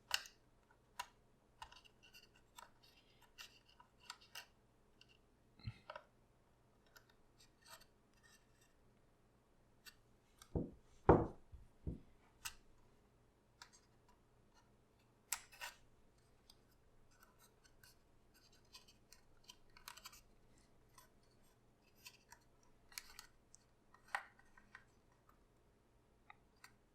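Scissors snipping through papercraft paper in short, scattered cuts, with paper rustling between them and a louder handling bump near the middle.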